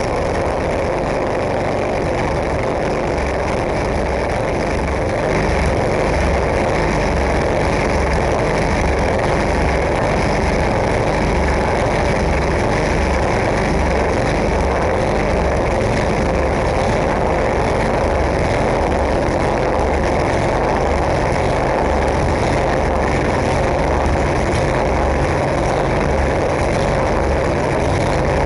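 10 hp snowblower engine running steadily with no choke, a little louder from about five seconds in. This is the engine that the owner says sputters and will not run well.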